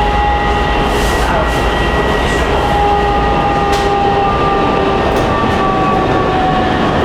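Metro train running through a tunnel, heard from inside the car. There is a steady rumble under a set of whining tones from the traction drive that shift in pitch; near the end one tone drifts lower as the train nears the terminal station.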